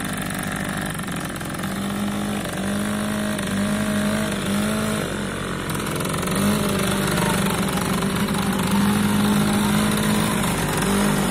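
Motorcycle engine running steadily, its hum growing a little louder about halfway through.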